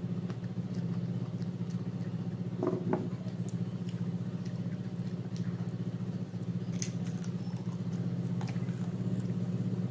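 A person chewing food with the mouth close to the microphone: scattered small wet mouth clicks and smacks, a few louder ones about three and seven seconds in. Under it runs a steady low background hum.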